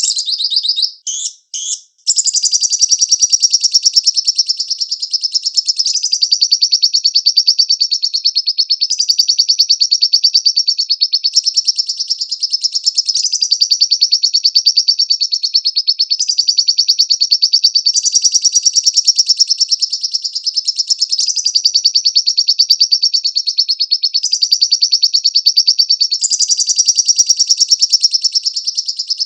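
Lovebird singing: a few short chirps, then from about two seconds in a long, rapid, unbroken chattering trill, high-pitched, that shifts slightly in pitch every few seconds.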